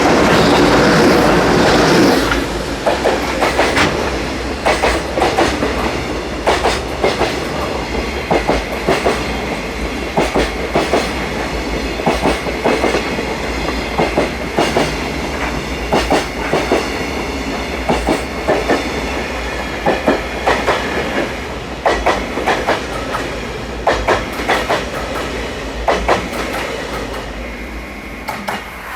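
Freight train passing close by, its wagon wheels clacking over the rail joints in a steady run of clicks. Loudest in the first two seconds, then fading away near the end.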